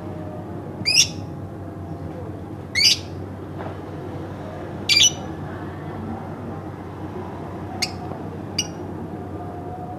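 Pet lovebird calling: three loud, short, high-pitched calls about two seconds apart, then two shorter, fainter calls near the end, over a steady low background noise.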